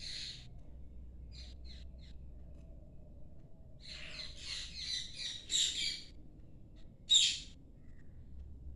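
Parrots calling: short chirps and harsh squawks, with a run of rapid squawks about four seconds in and one loud squawk near the end.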